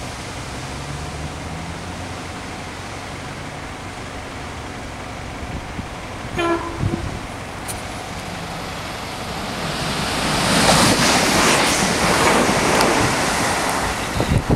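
A Class 323 electric multiple unit gives a short horn toot about six and a half seconds in. Its approach then swells into a loud, steady rush of wheels on rail and running noise as it comes close, loudest in the last few seconds.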